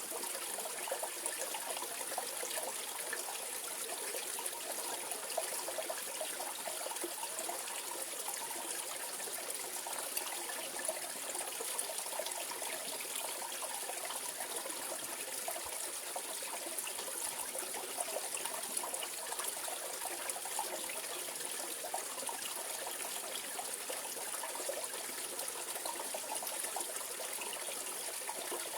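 Mountain valley stream flowing steadily over rocks, a continuous trickling and splashing rush of water.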